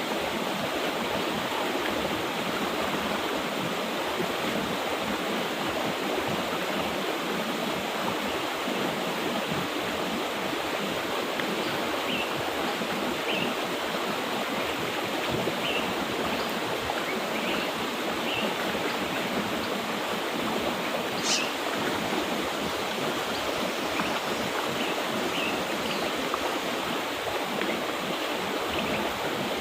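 Mountain river water rushing steadily over rocks. In the second half, faint short bird chirps come through now and then, and a single sharp click sounds a little past two-thirds of the way through.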